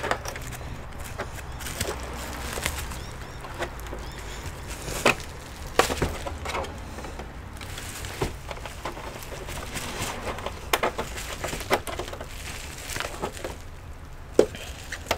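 Scattered clicks, snaps and light knocks of plastic casing and internal parts of an opened Asus ET2321 all-in-one computer being handled and prised, with a few sharper snaps about five, six and fourteen seconds in.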